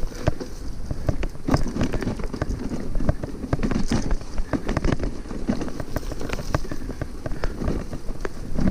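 A bicycle jolting over a rough dirt trail, with a constant rattle of irregular knocks and clicks from the frame and its load, over a low rumble of tyres and wind on the microphone.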